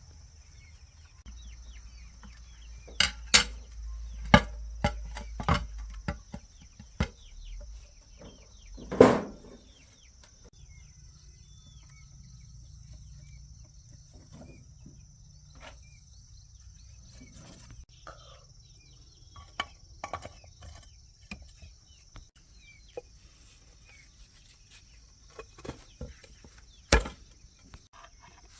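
Scattered knocks, clicks and clatter of parts and hand tools being handled, with a sharp knock about nine seconds in and another near the end, over a steady faint high-pitched hum.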